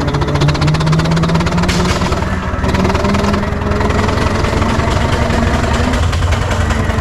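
6-inch scale Foden C-type steam wagon under way, its double-high engine, with both cylinders on full boiler pressure, beating fast and evenly, with a whine that climbs slightly in pitch over the first couple of seconds. There is a brief hiss about two seconds in.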